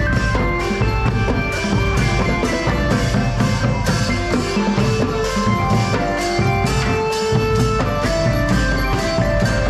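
Thai brass band (trae wong) playing a tune: held horn melody notes over a steady drum-kit beat.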